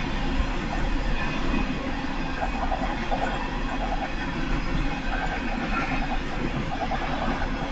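Empty coal train's hopper cars rolling past with a steady rumble and repeated wheel clatter on the rails.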